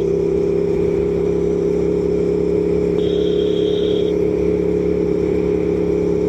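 Aprilia Tuono V4 1100 Factory's V4 engine running at a steady speed while cruising, heard from inside the rider's helmet with wind noise. A high tone sounds briefly about three seconds in.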